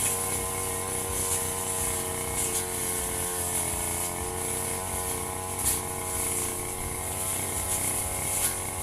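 Firman FGB 528 brush cutter engine running steadily at high speed while cutting grass, its pitch wavering slightly with the load, with brief swishes as the cutting head strikes the grass.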